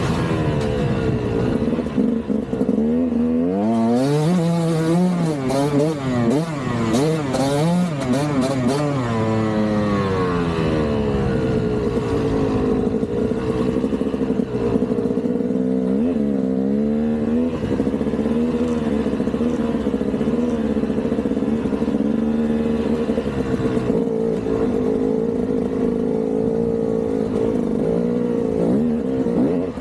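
Single-cylinder two-stroke engine of a KTM 200 dirt bike under way, revving up and down again and again over the first half, then running at a steadier pitch. Sharp clattering knocks come between about four and nine seconds in.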